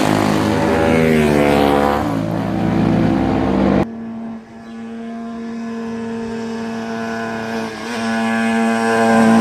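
Classic racing motorcycle engines at speed: a loud engine note for about four seconds that cuts off suddenly, followed by a quieter, steady engine note that builds in loudness near the end as another bike approaches.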